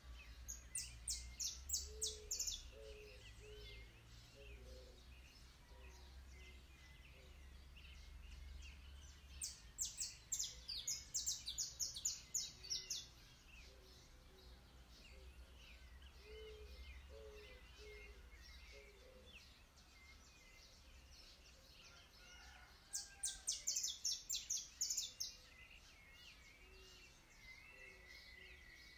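Birds singing in the trees: a quick run of high, sharp notes comes three times, about a second in, around ten seconds in and around twenty-three seconds in, over fainter, lower chirps and calls.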